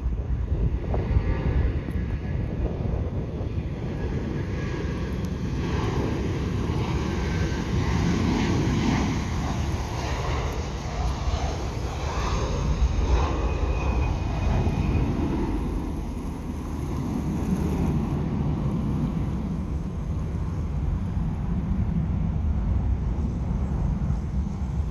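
Jet engines of a departing China Southern Airlines Airbus A330: a steady engine rumble that swells a little through the middle.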